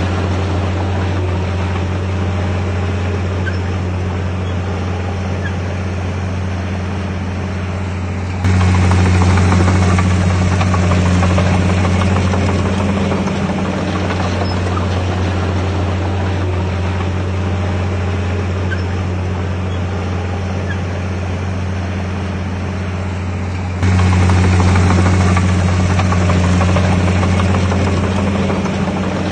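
Heavy earthmoving machine's diesel engine running steadily with a deep, low hum. It gets suddenly louder about a third of the way in and again near the end, easing back down after each jump.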